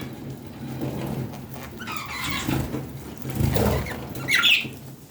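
Budgerigars chirping and chattering in irregular bursts, with a loud run of sharp, high chirps about four and a half seconds in.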